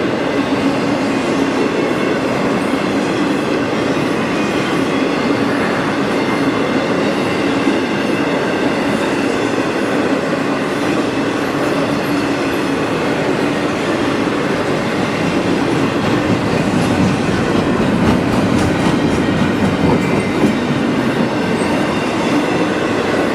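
CSX freight train cars rolling past on the rails with a steady rumble. Faint wheel clicks come in during the last few seconds.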